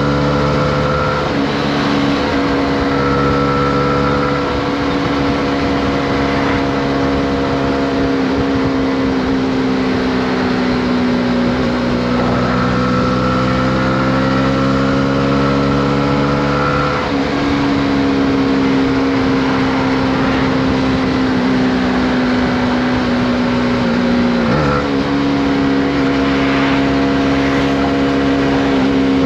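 Honda CB125R's single-cylinder four-stroke engine running under way, its note drifting gently up and down with a few abrupt changes in pitch, over steady wind and road noise.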